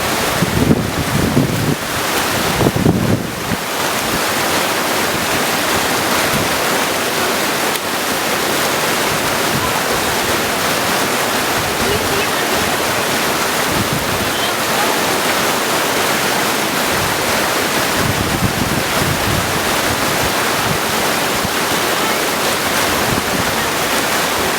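Mountain creek rushing over stones in a steady, full rush of water. Wind buffets the microphone with a low rumble in the first few seconds and again briefly later on.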